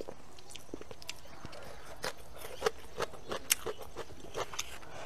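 A person chewing food close to a clip-on microphone: irregular short mouth clicks and smacks, a few sharper than the rest.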